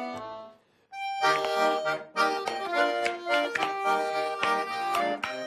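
Accordion playing a Russian folk tune. A phrase fades out at the start, and after a short pause the accordion strikes up a lively melody with chords and bass about a second in.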